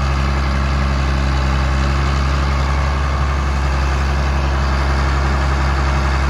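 2001 John Deere 8310 tractor's 8.1-litre six-cylinder diesel engine running steadily.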